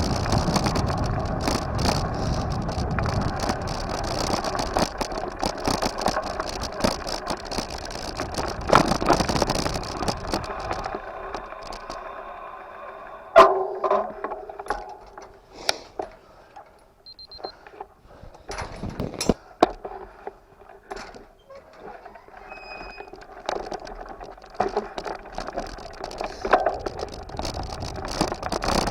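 Bike riding noise: a steady rumble of tyres and rattle with many small clicks. It dies down to near quiet about halfway through, broken by a few sharp knocks and faint short high tones, then picks up again near the end.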